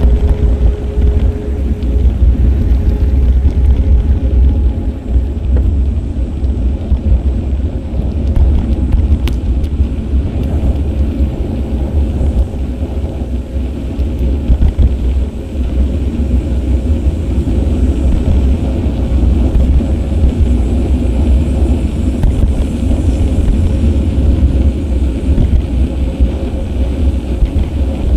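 Wind rumbling on an action camera's microphone during a bike ride, a loud, steady low rumble that flutters in level, with a faint hum underneath.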